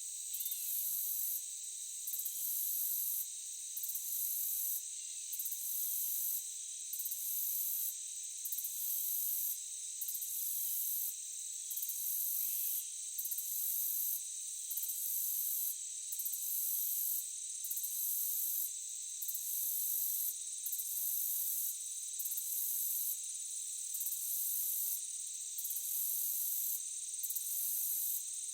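Insect chorus in a forest: steady high cricket-like trills under a very high buzzing that breaks off briefly every second or two.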